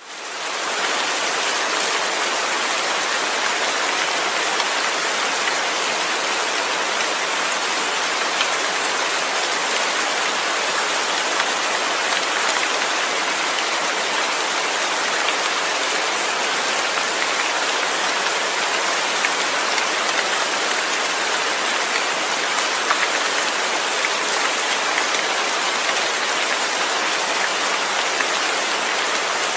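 Rain falling steadily: a dense, even hiss of drops with scattered sharper drop ticks, fading in over the first second.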